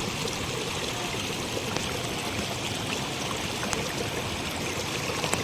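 River water flowing steadily, with a few faint clicks in the flow.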